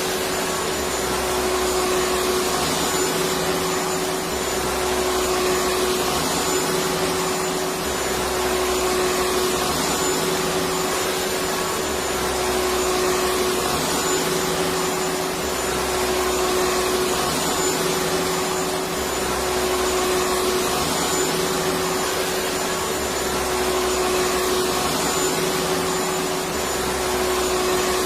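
Electric vacuum cleaner motor running continuously with a steady whining hum over a constant rush of air. A low rumble swells and fades about every three seconds.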